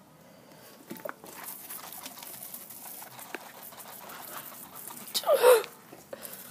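Gasoline-fed fire catching and burning, a steady hiss with scattered crackles, and a short, loud, cry-like sound about five seconds in.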